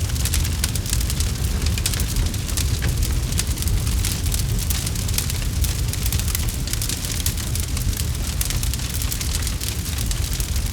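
Campfire crackling: many quick snaps and pops over a steady low rumble.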